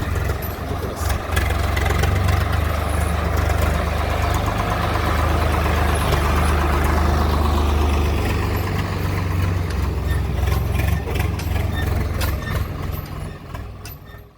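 Diesel tractor engine running steadily with a deep low rumble, dying away near the end.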